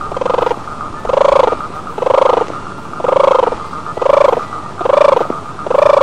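Giant tortoise calling: seven loud, evenly spaced calls, about one a second and each just under half a second long, over a faint steady high hum.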